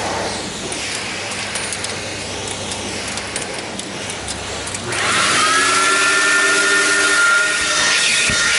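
Steady hissing noise, then about five seconds in a car wash vacuum's motor starts, its pitch rising as it spins up and settling into a steady, louder whine.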